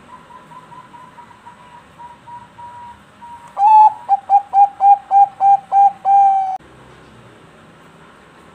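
Zebra dove (Bangkok perkutut) cooing: a faint quick run of short notes, then about three and a half seconds in a loud series of about ten clipped coos that ends on one longer drawn-out note.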